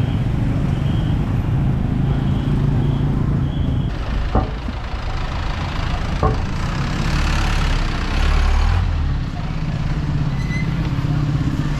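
Street traffic: motor vehicles running with a steady low rumble, one passing louder about seven to nine seconds in.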